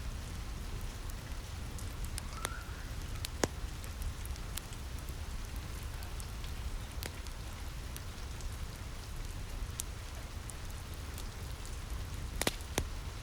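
Steady rain pattering on a cabin roof with a low rumble underneath, mixed with the crackle of a wood fire in a fireplace: scattered sharp pops, a louder one about three seconds in and two close together near the end.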